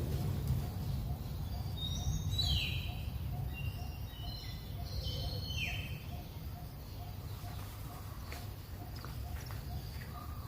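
A songbird singing a phrase of clear whistled notes that step down in pitch, from about two seconds in to about six seconds in. Under it a faint short note repeats a few times a second, over a steady low rumble.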